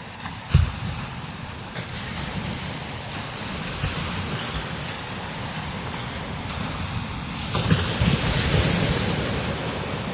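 Strong wind gusting across the microphone: a rumbling buffet low down under a steady hiss. There is a sharp buffet thump about half a second in, and a stronger gust swells in about three-quarters of the way through.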